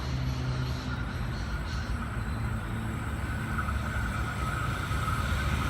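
Sydney Trains H-set "Oscar" electric multiple unit running through the station without stopping: a steady low rumble with a faint steady whine that grows a little louder.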